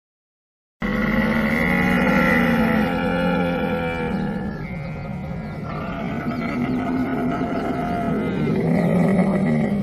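Camel vocalizing: a long, unbroken, rough call with several shifts in pitch, starting abruptly about a second in out of silence.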